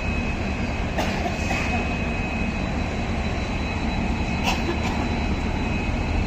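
Railway train noise: a steady rumble with a thin steady high whine, and a few short sharp clicks about a second in and again after about four and a half seconds.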